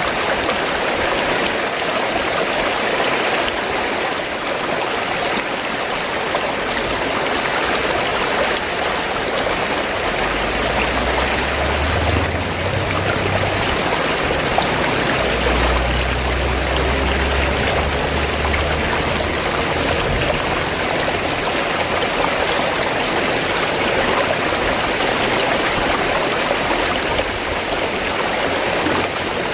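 Fast-flowing stream gurgling and rushing steadily, with a low rumble for several seconds midway.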